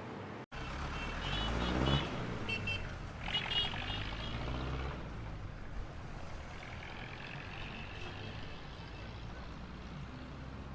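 Street traffic: a vehicle passes about two seconds in, with a run of short high beeps during the pass, then a steady low traffic rumble.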